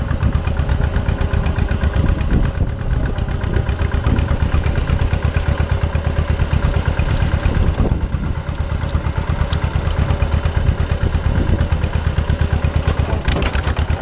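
Small farm tractor's engine running steadily while the tractor is driven, with a fast, even firing pulse.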